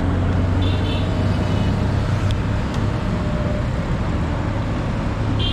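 Road vehicle engine running steadily with road noise, heard from on board; a brief high-pitched tone sounds about a second in.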